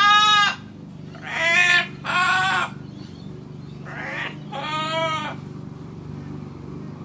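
Macaw calling: five loud calls, each under a second long, the last four coming in two pairs.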